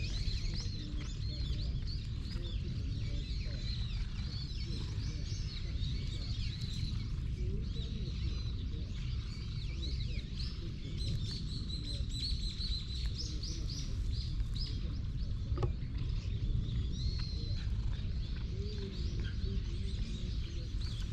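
Small wild birds chirping and twittering, many short high notes scattered throughout, with a quick run of them about halfway through. A steady low rumble lies underneath.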